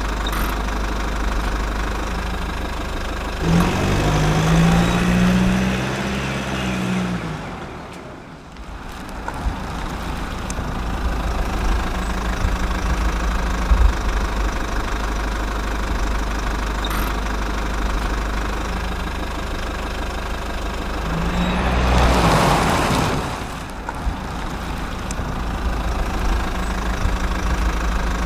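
A steady engine-like running drone, the sound of a JCB backhoe loader at work. It swells louder twice, about four seconds in and again about twenty-two seconds in, with a brief dip about eight seconds in.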